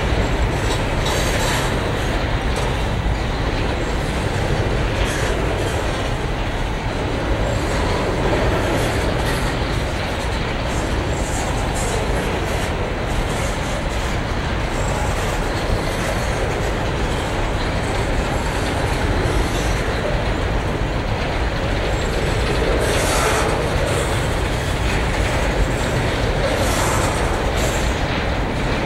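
Covered hopper wagons of a freight train rolling past on the track: a steady rumble with the wheels clicking over rail joints.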